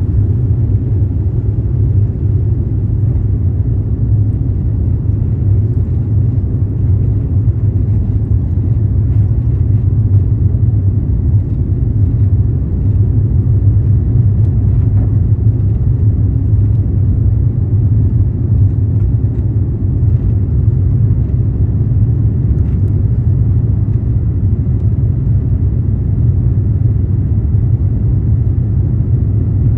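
Airbus A350-900 airliner taking off, heard as a steady low rumble of its Rolls-Royce Trent XWB engines at takeoff power and the rushing air.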